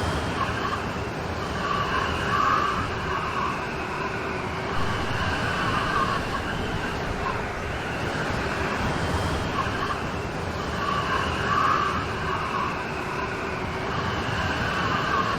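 Steady rain falling, an even hiss with no breaks; the same pattern recurs about every nine seconds, as a looped recording does.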